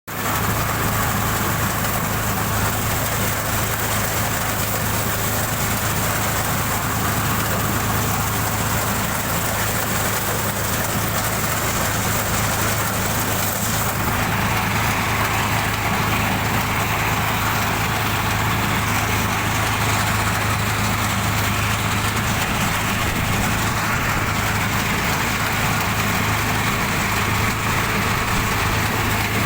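Tractor engine running steadily while driving a wheat-cutting machine, with a constant low hum; the tone shifts slightly about halfway through.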